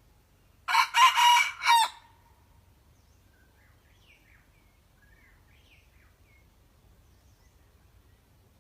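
Decoy red junglefowl rooster crowing once: a short, loud crow of about a second in three parts, a little under a second in. Faint small-bird chirps follow.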